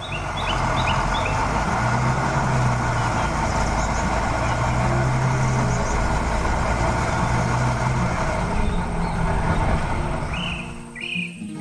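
Heavy truck or construction machine engine running steadily with a low hum, easing off near the end. Birds chirp at the start and again near the end.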